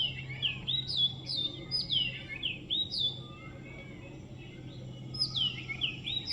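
Birds chirping: a rapid series of high, downward-sliding calls, one after another. They come in two bouts with a short lull between.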